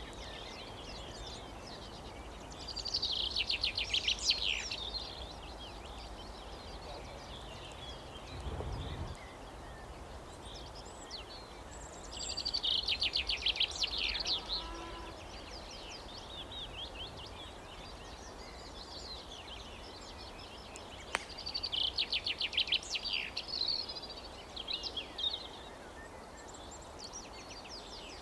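A songbird singing three fast, trilled phrases of rapid repeated high notes, roughly nine seconds apart, over steady outdoor background noise. A single sharp click sounds about two-thirds of the way through.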